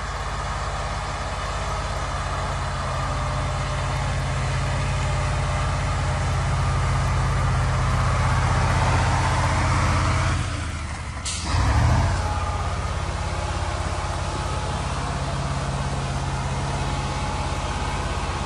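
Heavy truck's diesel engine running steadily, with a short sharp hiss of air about eleven seconds in, like an air brake venting.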